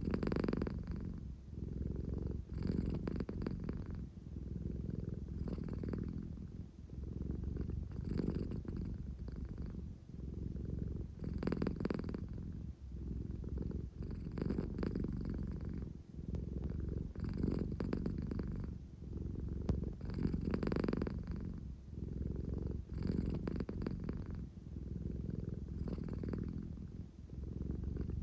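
American Shorthair cat purring close up, a continuous low rumble that swells and eases with each breath, about once every three seconds.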